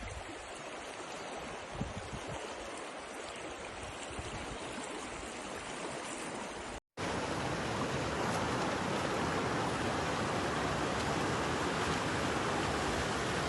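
Steady rain falling, an even hiss. It drops out briefly about seven seconds in and comes back louder and fuller.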